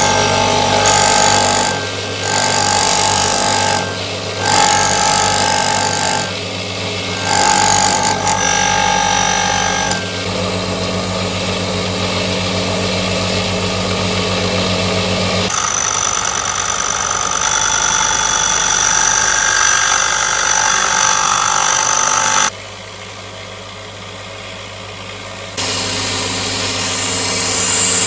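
Electric power tool running continuously with a steady hum and whine. It swells louder in repeated spells about a second long at first, then runs steadier with a higher whine, dropping quieter for a few seconds near the end before picking up again.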